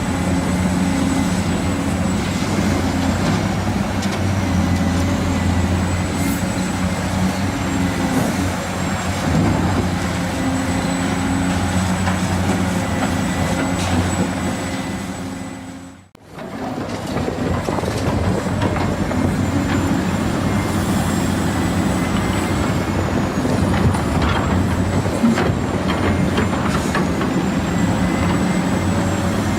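Remote-control toy excavator and dump truck running: the whirring of small electric motors and plastic gearboxes, with a thin high whine that wavers as the load changes. The sound drops out briefly about halfway, then carries on.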